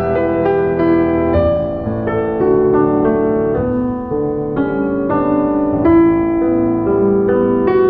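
Background piano music: a slow, gentle melody of single notes over sustained low bass notes.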